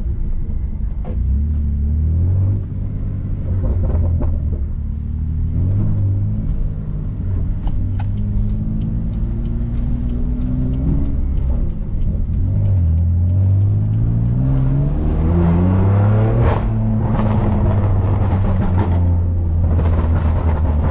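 BMW S55 twin-turbo inline-six in an F80 M3 with catless downpipes and an open valved axle-back exhaust, accelerating in several pulls. The note rises and drops again each time, with the longest, loudest rise in the latter part and an abrupt break at its top.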